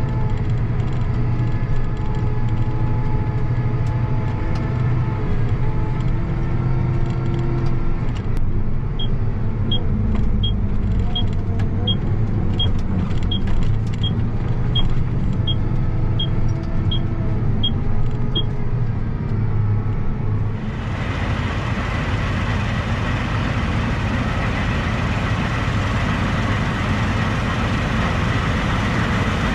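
Heavy farm machine's diesel engine running steadily, with a string of about fourteen short high-pitched warning beeps, evenly spaced, in the middle. About twenty seconds in, the sound changes suddenly to a broader, hissier engine noise.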